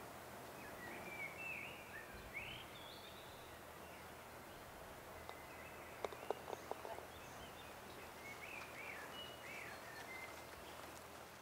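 Songbirds singing in short chirping phrases over a steady outdoor background hiss. A quick cluster of four or five sharp clicks comes a little past the middle.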